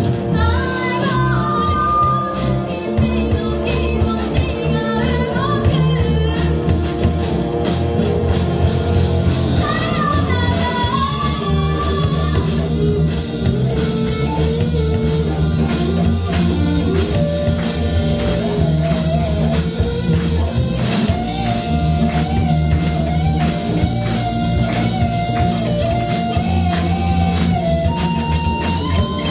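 Live rock band playing: singing over guitar, bass and a drum kit, with a steady beat.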